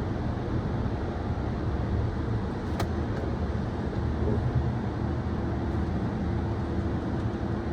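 Automatic car wash machinery running, heard from inside the car: a steady, dense noise with a sharp click about three seconds in and a steady hum joining about five seconds in.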